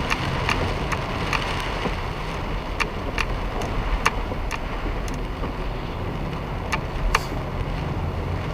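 Car driving in heavy typhoon rain: a steady rush of road and rain noise with a low rumble, and irregular sharp ticks over it.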